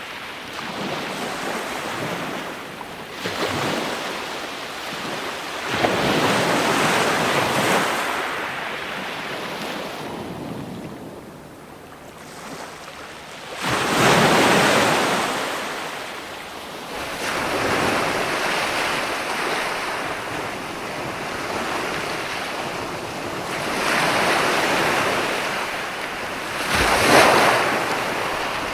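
Ocean surf: waves breaking and washing up in surges every few seconds. There is a quieter lull around the middle, then a heavy break, and a sharper crash near the end.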